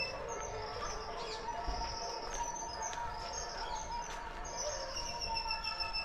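Several birds chirping and calling over one another, with short, high notes repeating throughout.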